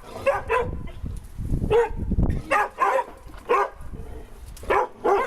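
A dog barking repeatedly in short barks, wary alarm barking at an unfamiliar life-size skeleton. A low rumble sits under the barks about two seconds in.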